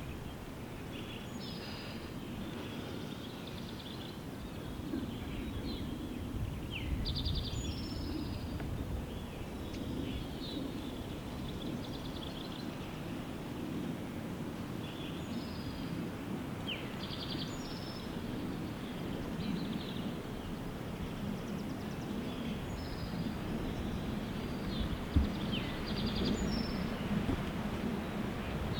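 Songbirds singing: short whistled phrases and quick trills repeating every few seconds, over a steady low rumble of wind on the microphone. One short tap near the end.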